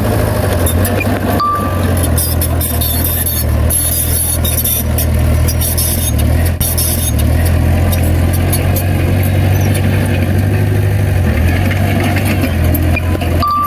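Heavy diesel earthmoving machinery running steadily under load, with scattered metallic clanks and rattles and two short high beeps.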